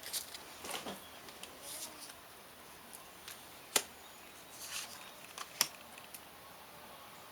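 Oracle cards being handled: faint rustling with a few sharp clicks, the loudest about four seconds in and another near six seconds.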